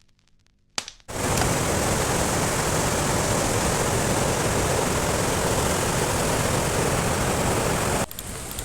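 Steady, even rushing of water in heavy rain, starting sharply about a second in and cutting off abruptly near the end.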